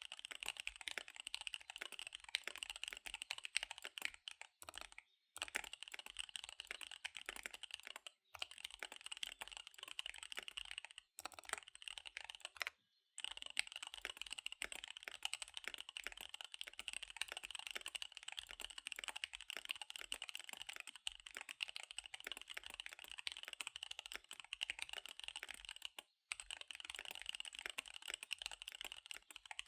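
Fast typing on a KBD75 V3 mechanical keyboard with SP-Star Dark Magic Girl tactile switches and DSA keycaps: a dense, rapid run of keystroke clicks, with brief pauses about five, eight, eleven, thirteen and twenty-six seconds in.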